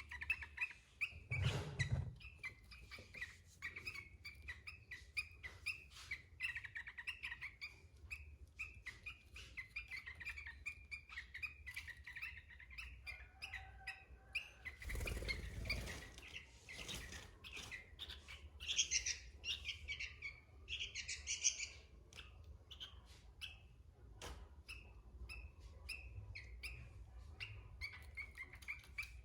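Sooty-headed bulbul (kutilang) singing vigorously: a steady run of quick chirps and short whistled phrases, with a louder, higher flurry of calls about two-thirds of the way through. Two brief muffled rumbles break in, one near the start and one near the middle.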